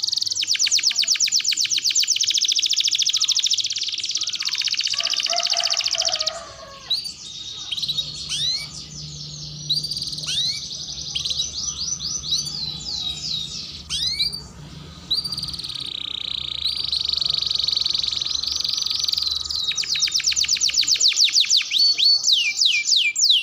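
Domestic canary singing a long song: fast rolling trills at first, then a run of separate upward-sweeping chirps about halfway in, and fast trills again toward the end.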